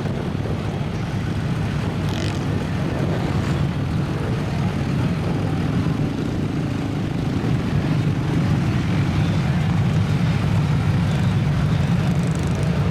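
Big lifted mud truck's engine running with a steady low drone, growing a little louder about eight seconds in.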